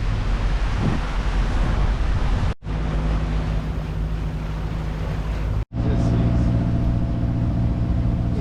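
Wind and sea noise rush over the microphone at first. After about two and a half seconds a steady engine hum takes over: the yacht's inboard diesel motoring. The hum grows fuller and louder after a brief dropout about two-thirds of the way in.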